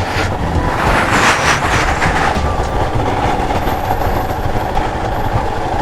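Royal Enfield Himalayan's single-cylinder engine running steadily under way, under a continuous rush of wind and road noise.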